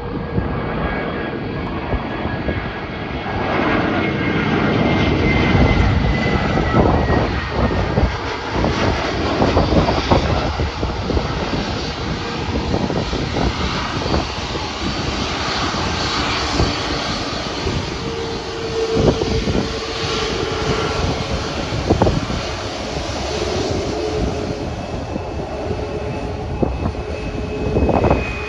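Airbus A320 jet airliner landing: a loud, steady rush of jet engine and air noise, broken by short rumbles and thumps, with a faint high whine.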